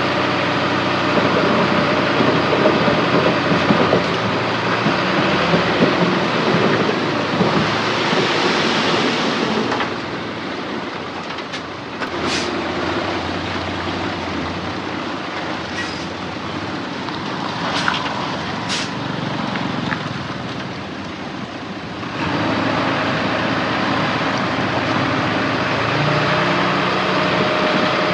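Heavy diesel earthmoving machinery working, its engine drone under load easing off for a stretch in the middle. A few brief high metallic squeaks come through during the quieter stretch.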